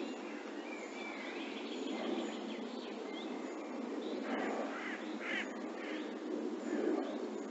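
Wild birds calling: thin whistled song phrases in the first few seconds, then a few harsher calls about four to five seconds in, over a steady hiss.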